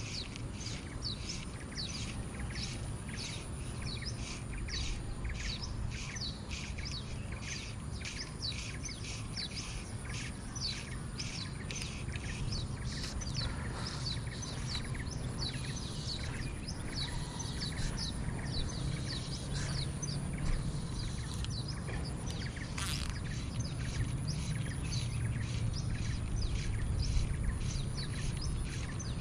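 Birds chirping over and over, about two quick falling notes a second, over a steady low rumble.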